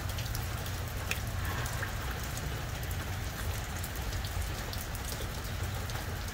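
Steady rain falling, heard as a dense spread of small drop ticks over a continuous low rumble.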